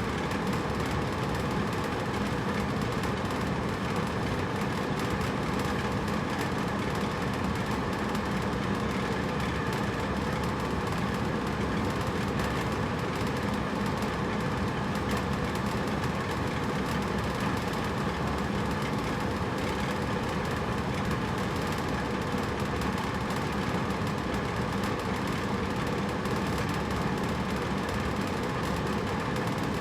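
Hotel room air conditioner running steadily: a constant whooshing hum with a faint low drone and a higher whine, no change in level.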